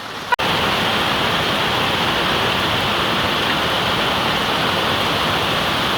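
Heavy rain pouring down during a thunderstorm: a loud, steady, even hiss that starts suddenly less than half a second in.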